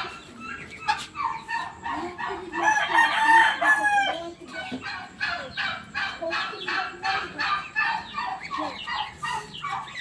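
A flock of domestic fowl calling in short, quick repeated notes, about three a second, with one longer, louder call from about two and a half to four seconds in.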